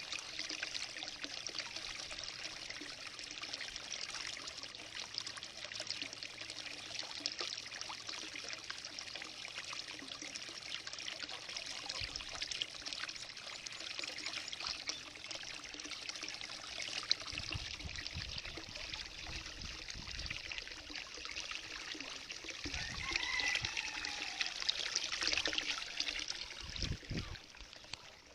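Running water trickling and pouring steadily. It grows louder for a few seconds near the end, with some low knocks and a short sliding tone.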